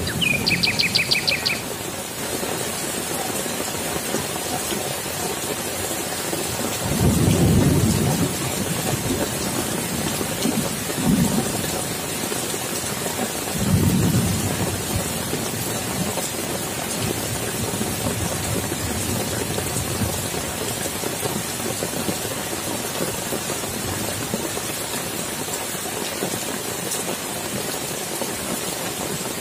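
Heavy rain falling steadily on wet grass, leaves and standing water, with low rumbles of thunder, the biggest about seven seconds in and smaller ones around eleven and fourteen seconds. A quick run of chirps sounds in the first second or so.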